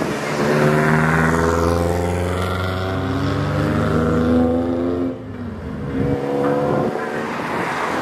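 Slammed Nissan Silvia S14 driving past with its engine running, the note easing slightly in pitch and dropping away about five seconds in. A second lowered car's engine, a Toyota GR86, comes up in the last two seconds.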